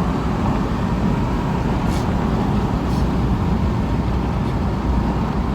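Road noise of a moving car heard from inside: a steady low rumble from engine and tyres, with two faint clicks about a second apart.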